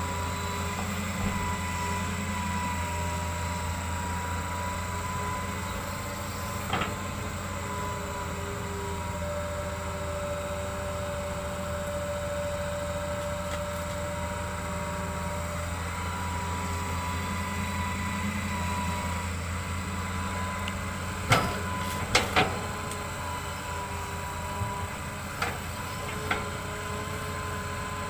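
Hitachi excavator running steadily, its engine drone overlaid by a steady hydraulic-type whine, with a few sharp knocks, most of them in the last quarter.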